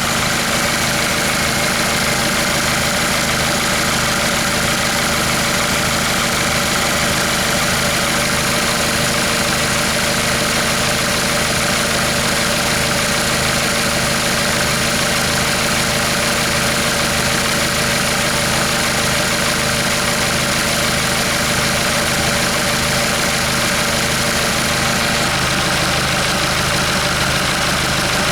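Hyundai/Kia D4CB 2.5-litre four-cylinder turbodiesel running steadily at idle, kept running for an oil-pressure check.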